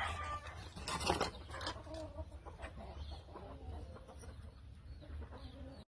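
Chickens clucking faintly now and then, with a few light clinks near the start.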